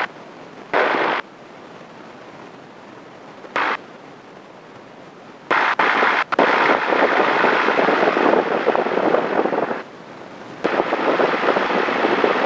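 Light airplane's engine and wind noise in the cockpit, picked up through the headset intercom, which cuts in and out abruptly: short bursts at first, then a long stretch of about four seconds in the middle and another near the end.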